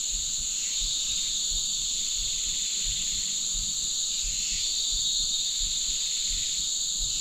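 Steady chorus of jungle insects: a constant high-pitched shrilling that holds at an even level throughout.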